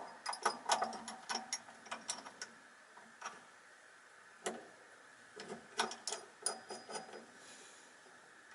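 Irregular sharp metallic clicks and clinks from hand tools and small vacuum-motor parts (washers, nut, bearing) being handled and fitted, coming in bunches with short quiet gaps between them.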